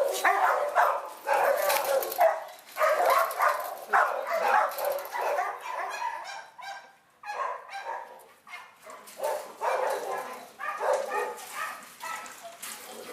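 Shelter dogs barking, many short barks in quick succession throughout.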